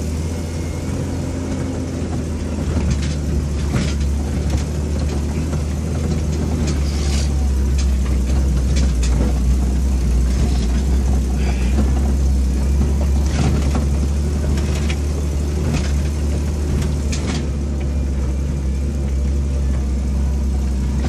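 Off-road vehicle's engine running steadily under load, heard from inside the cab while climbing a rough dirt track. A low, continuous hum is broken by scattered knocks and rattles.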